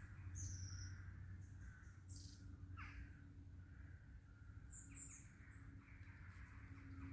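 Wild woodland birds calling faintly: short high chirps and a few falling calls, over a low steady background hum.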